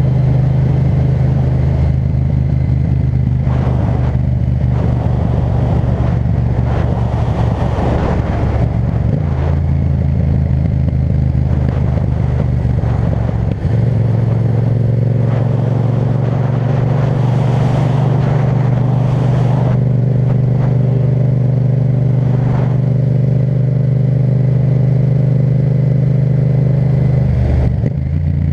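Yamaha MT-07's parallel-twin engine running through an Akrapovic titanium exhaust while riding at a fairly steady pace. Its note changes briefly about a third of the way in, then holds steady.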